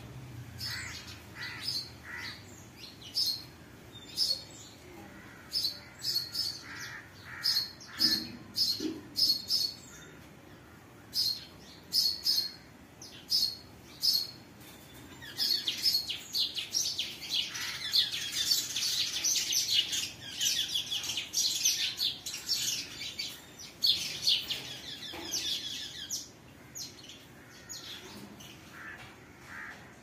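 Birds chirping: short, high calls repeated at an irregular pace. About halfway through they thicken into a dense stretch of rapid chattering, which thins out again near the end.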